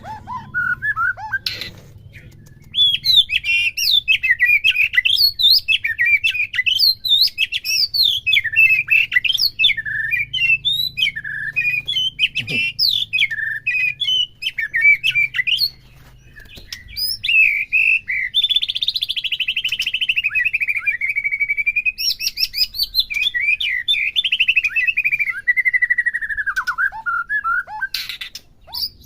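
White-rumped shama (murai batu) singing a fast, varied song of chirps and whistles. Past the middle it runs into a long trill that slowly falls in pitch.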